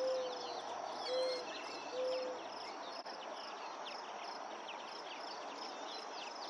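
Three low hooting bird notes about a second apart, over a steady chorus of chirping insects.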